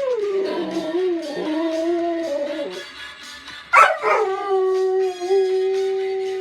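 A dog howling in two long howls. The first wavers and falls in pitch over about three seconds; the second breaks in sharply about four seconds in and then holds one steady pitch. Faint music with a regular beat plays behind.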